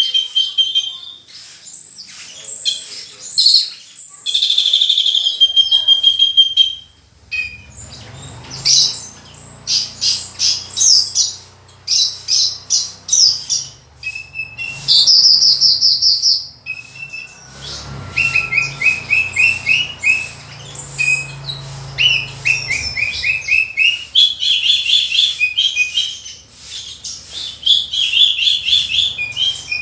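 Javan bushlark (branjangan) singing continuously, a long varied song of held buzzy notes, fast rattling trills and quick repeated chirps, packed with mimicked phrases of other birds.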